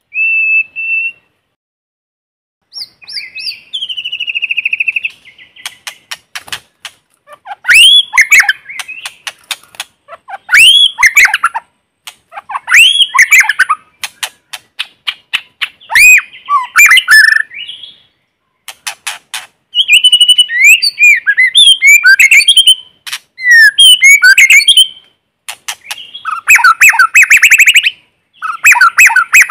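White-rumped shama singing: a run of varied phrases of clear whistles, quick clicking notes, sweeping rising and falling notes and harsher buzzy chatter, each phrase broken off by a short pause.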